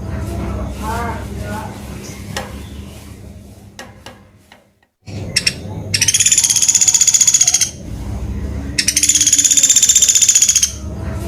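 Pelatuk beras, a small woodpecker, giving two long, rapid, high-pitched trilling rattles about halfway through and again near the end. A lower series of arching notes comes near the start, over a steady low hum, and the sound cuts out briefly just before the middle.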